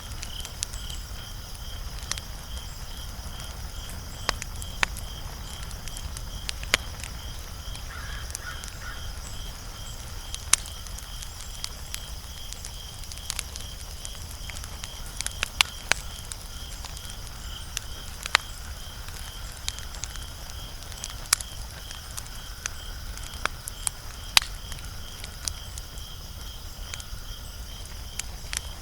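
Wood fire crackling, with irregular sharp pops scattered throughout, over a steady high-pitched pulsing insect chirp.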